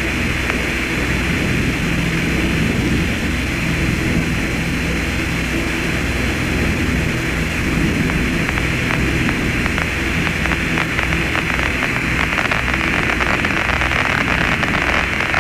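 Steady, loud hiss-like noise over a low hum, with a thin high tone and faint crackling in the second half.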